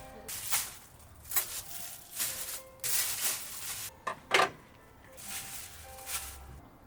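Irregular knocks, clatters and rustles of objects being handled and set down, the loudest about four seconds in.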